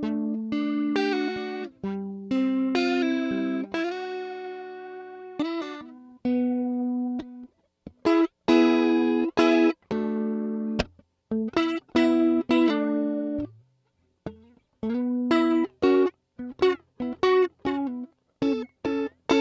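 Electric guitar played through a JHS 3 Series Flanger pedal. It opens with ringing chords and single notes for about seven seconds, then moves to short, choppy chords with brief silences between them.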